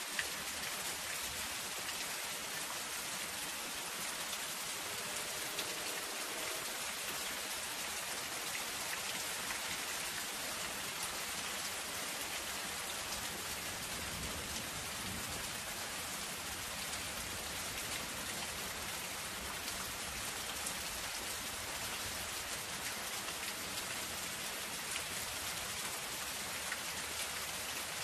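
Soft, steady rain falling on a zinc roof: a dense, even hiss of drops with many small individual taps.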